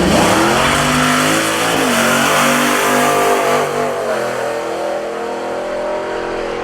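Drag racing car accelerating hard down the strip, its engine pitch climbing and then dropping back at each of several gear changes.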